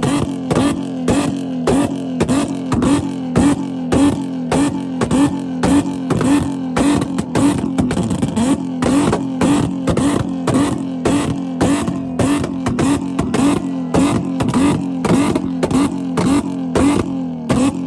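Car engine held flat out at its rev limiter in a rev contest, cutting out and catching again in a steady rhythm about two times a second at one fixed pitch.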